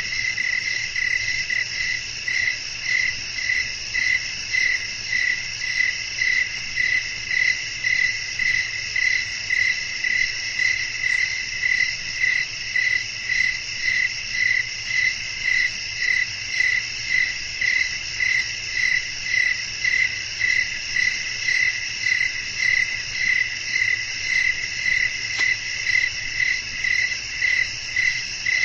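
Night chorus of crickets: one loud chirp pulsing steadily about three times every two seconds over a continuous high-pitched trill of other insects.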